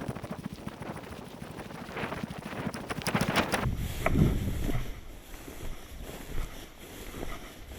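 Footsteps and rustling through dry grass and reeds, a run of short crunching strokes, with wind buffeting the microphone.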